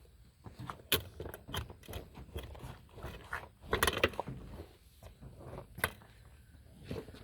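Irregular metallic clicks and clanks of a jack being worked against a tractor wheel rim to break the tire bead, with a louder rattle about four seconds in.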